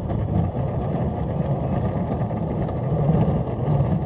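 Electric traction motors and gearing of a garden-railway locomotive grinding steadily under heavy load as it shoves a Russell plow through deep snow. This is the hard, overheating strain that burns up traction motors.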